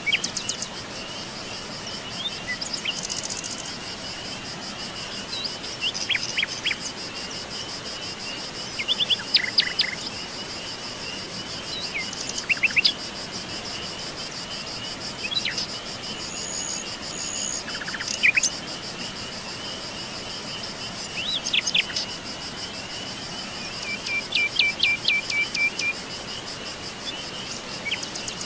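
Forest ambience: wild birds give short chirps and quick sweeping calls every few seconds, with a run of about six quick repeated notes near the end, over a steady high insect trill like crickets and an even background hiss.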